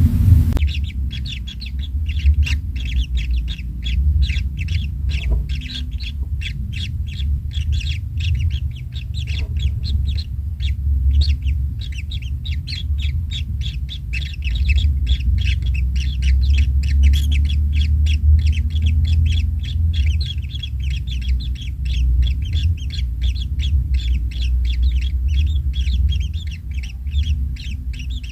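Kingfisher nestlings calling non-stop, a dense chatter of short, high calls repeated several times a second, over a steady low rumble.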